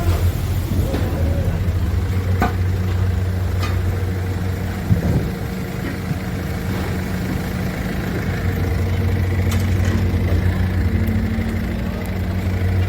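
A steady, low mechanical hum, like a motor running at idle, with a few sharp knocks over it.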